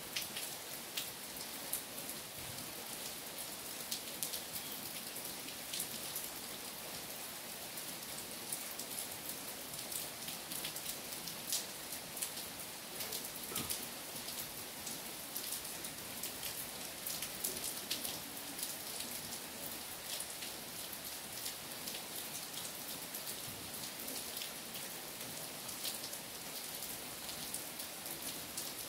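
Steady rain falling through trees onto wet, puddled ground: an even hiss with many separate sharp drop ticks scattered through it.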